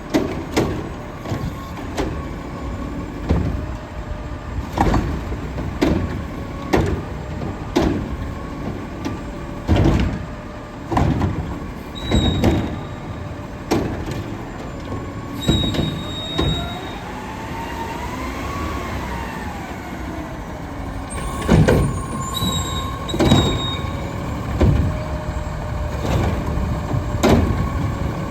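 Diesel garbage truck with a Curotto Can cart arm working: the engine runs steadily under a hydraulic whine, with a string of loud bangs and knocks as carts are lifted and emptied into the can. A whine rises and falls briefly about two-thirds of the way through.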